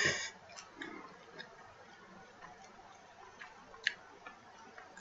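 Close-miked chewing of a mouthful of pizza: scattered small mouth clicks, with a sharper click about four seconds in. The tail of a brief louder sound fades out right at the start.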